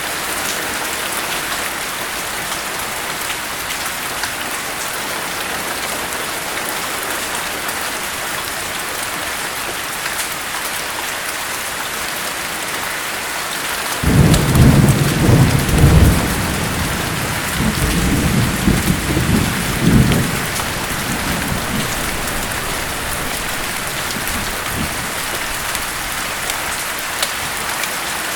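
Steady heavy rain hissing throughout. About halfway through, a clap of thunder breaks in suddenly with a deep rumble that rolls on in several surges for about six seconds before fading back under the rain.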